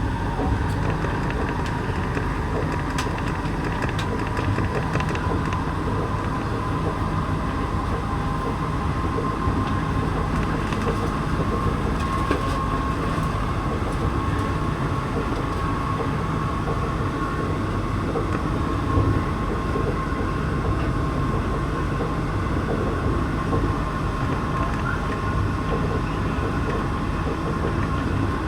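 Santiago Metro NS-16 train running between stations, heard from inside the car: a steady rumble of the running gear with a thin, steady whine over it.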